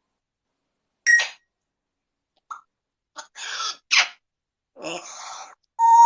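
Parrot vocalizing: a few short, noisy sneeze-like bursts and squawks, then a steady whistled note near the end.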